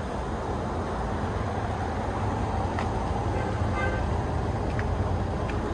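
Honda Acty kei van's small engine idling steadily, warm-up idle shortly after a cold start.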